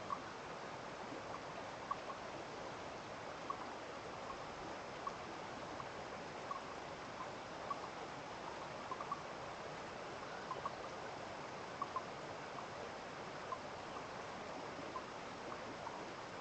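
Small stream of water trickling steadily, with short, irregular plinks every half second to a second.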